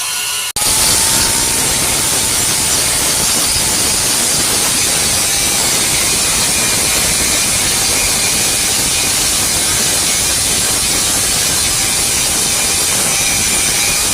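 Electric welding arc giving off a steady, loud hissing sizzle that starts abruptly about half a second in and runs on unbroken.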